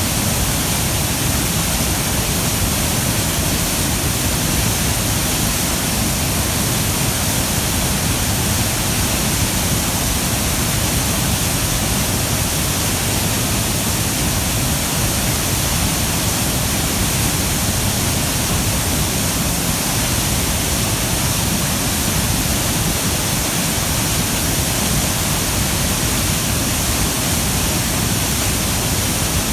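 Hyakken Falls pouring into its plunge pool, swollen with rainwater: a loud, steady rush of falling water.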